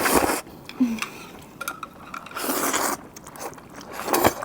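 Close-miked eating of black bean sauce noodles: chewing with three short, louder wet bursts, one near the start, one midway and one near the end.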